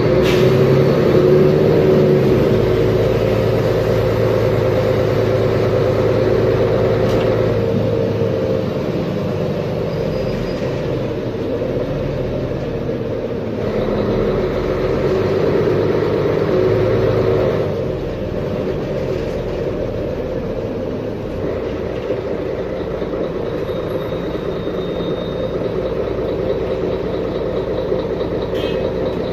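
Mercedes-Benz Conecto G articulated bus's OM457LA straight-six diesel engine running under way. It is loudest for the first eight seconds and again from about 14 to 18 seconds, easing off in between and afterwards.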